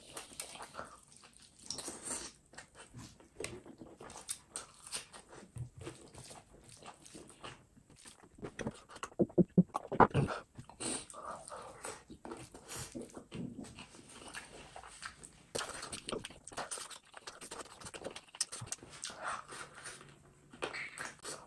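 Close-miked mouth sounds of a man eating spicy duck curry and rice by hand: wet chewing and lip smacking as a run of irregular clicks, loudest about nine to ten seconds in.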